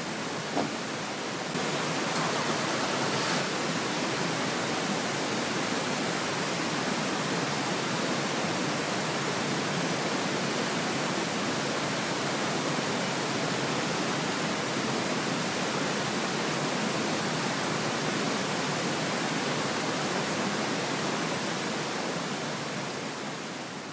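Steady rushing of a mountain stream. It gets a little louder about a second and a half in and fades out at the very end.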